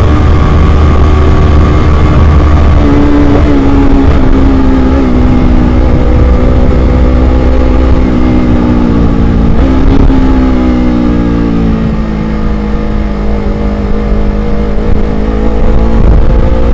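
Motorcycle engine running under way, its pitch easing down and rising again as the throttle changes, over a heavy low rumble of wind buffeting the microphone.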